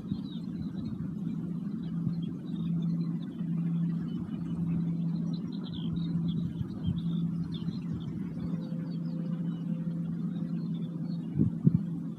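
Singing bowl sounding a steady low tone that swells and fades, with a second, higher tone joining later. Wind rumbles on the microphone throughout, and birds chirp faintly. A couple of knocks come near the end.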